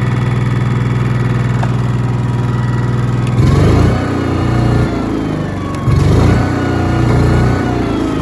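Airman PGW180SCL engine welder-generator running with a steady hum. About three and a half seconds in, its engine speed swings up and down a couple of times, then settles back toward a steady run near the end.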